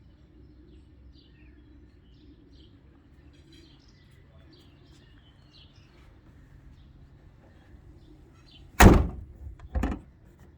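Pickup truck bonnet slammed shut about nine seconds in, with a smaller second thud a second later; the first close does not latch it properly. Before that, faint bird chirps over a low outdoor hum.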